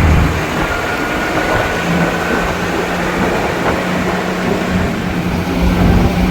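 Vehicle engine running steadily with a low rumble, and a steady low hum from about two seconds in.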